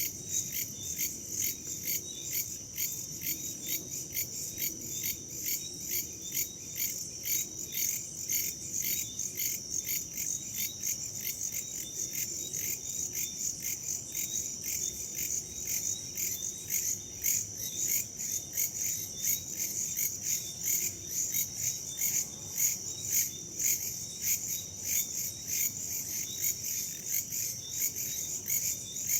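Crickets and other insects chirping continuously in a dense, fast pulsing high chorus, over a faint low rumble.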